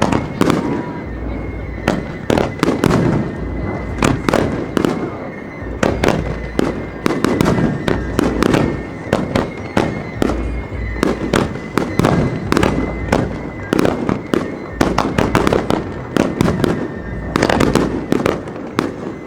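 Aerial fireworks bursting in a rapid, continuous barrage: many sharp bangs in quick succession over deep rolling booms, with no pause.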